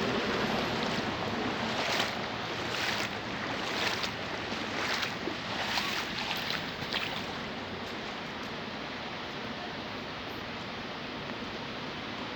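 Heavy rain pouring down as a steady hiss, with several brief louder swishes in the first half, then settling to an even, slightly quieter hiss after about seven seconds.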